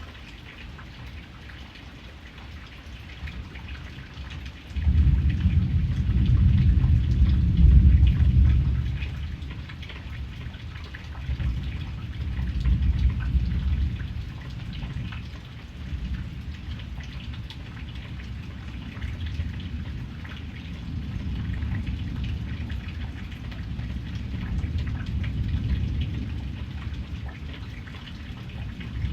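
Steady rain with the patter of individual drops, joined by low rolling thunder: the loudest roll starts suddenly about five seconds in, and further rumbles swell and fade several times.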